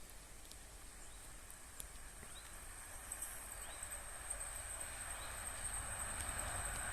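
Train approaching from a distance: a faint, thin high steady tone from the rails that grows slowly louder, with a few short chirps.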